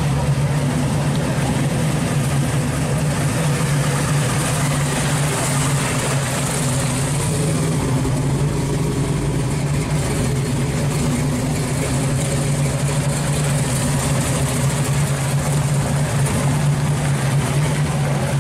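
Supercharged V8 of a 1971 Pontiac LeMans pro street car idling steadily, with no revving.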